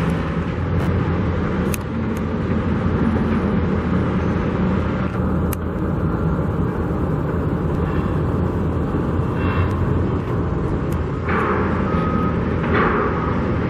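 Steady motor-vehicle engine and traffic noise, a continuous low hum with a few faint clicks.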